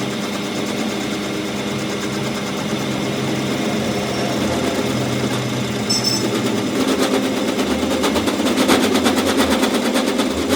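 Fast, continuous rattle of a power tool working metal over a steady machine hum; the rattle grows louder about seven seconds in.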